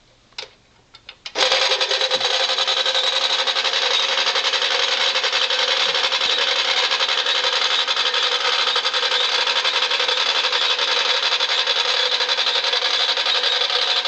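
A few clicks, then about a second and a half in the 1964 Remco Whirlybird toy helicopter's motor switches on and runs steadily, a continuous mechanical whir of motor and gears.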